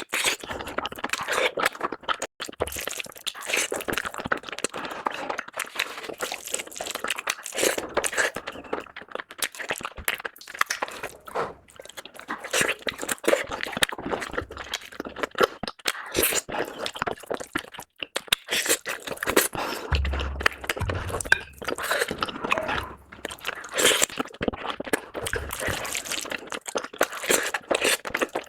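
Close-miked mukbang eating: steady chewing and crunching of curry with puri and rice, with quick wet crackling clicks from the mouth. A brief low thud comes about two-thirds of the way through.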